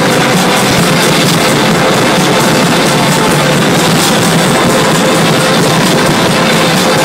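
Loud, dense fireworks barrage, a constant crackle of bursting shells blended with music from the display's soundtrack.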